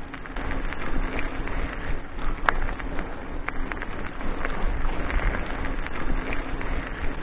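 Bicycle rolling along a forest dirt road: steady tyre and riding noise with small clicks and rattles, one sharper knock about two and a half seconds in, and wind buffeting the microphone.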